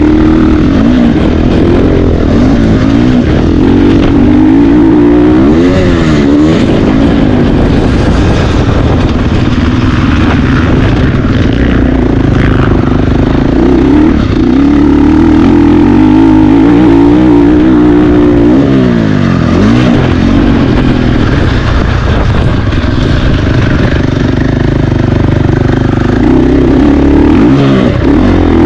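Motocross bike engine racing at high revs, its pitch climbing and dropping again and again as the rider accelerates, shifts and backs off.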